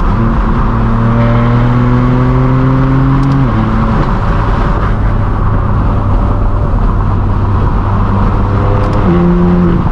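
BMW M4 F82's twin-turbo inline-six through a straight-piped, non-resonated exhaust, pulling in gear with the pitch climbing slowly, then dropping sharply at an upshift about three and a half seconds in. It then holds a steady cruising note until the pitch steps up suddenly near the end.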